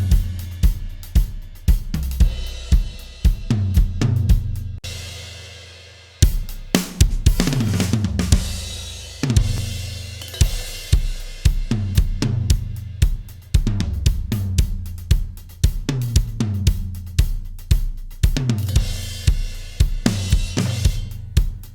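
Recorded drum kit playing a steady groove of kick, snare, hi-hat and cymbals, mixed through an SSL Big Six console. About five seconds in the playing stops and a cymbal rings out; the groove starts again about a second later.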